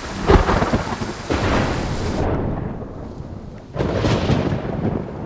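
Thunderstorm: thunder rumbling and cracking over rain, loudest just after the start and again about four seconds in.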